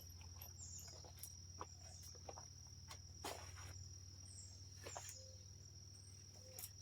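Near silence with a faint, steady high-pitched cricket trill, a low hum and a few small scattered clicks.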